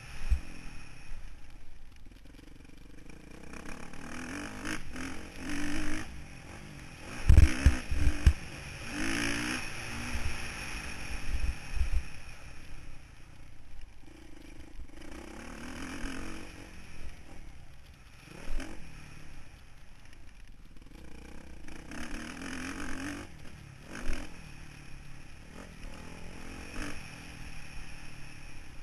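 Motocross motorcycle engine heard from an onboard camera, its pitch rising and falling again and again as the rider opens and closes the throttle around the track. Heavy knocks and rattles hit the microphone, loudest about seven to eight seconds in.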